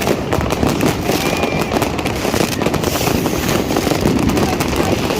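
New Year's fireworks and firecrackers going off without pause: a dense, rapid crackle of overlapping bangs, with a brief whistle about a second in.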